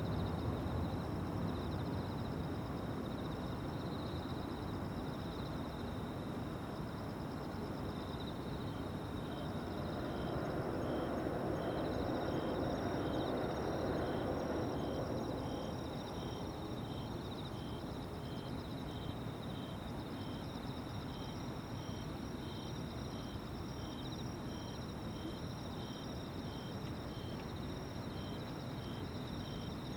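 Evening insects singing: a continuous high trill, joined about nine seconds in by a regular chirp repeating roughly one and a half times a second. Beneath it is a steady low rumble of background noise that swells for several seconds near the middle.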